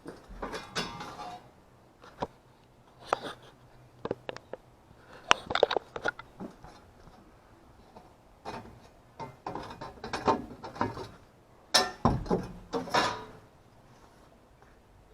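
Tools and metal parts being handled during air-conditioner repair work: irregular clicks, knocks and clatters, a few of them loud.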